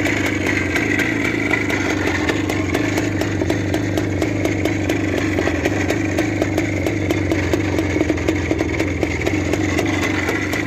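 Motorcycle engine running steadily at an even speed close by, its exhaust beats coming fast and regular.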